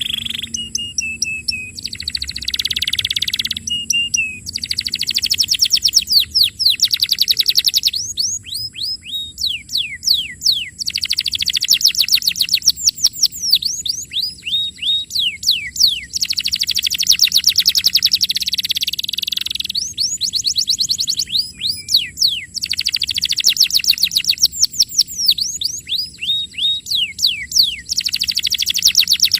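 Domestic canary singing a long song of fast trills and rolls, with rows of quick downward-sweeping notes, in phrases broken by short pauses.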